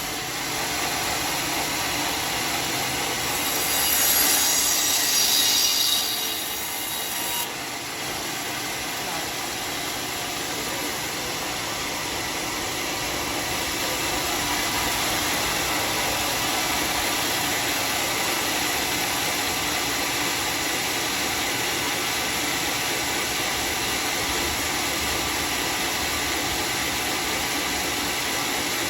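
Homemade sawmill's saw blade cutting through a teak log, a steady noisy whine with a brighter, shriller screech from about three to six seconds in.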